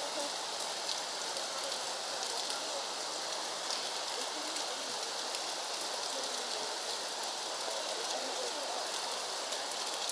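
Steady rain, an even hiss with fine pattering.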